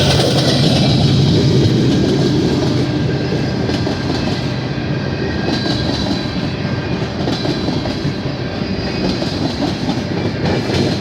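Freight train cars rolling past at track speed: a steady rush of steel wheels on rail, dense with rapid irregular clicks of the wheels.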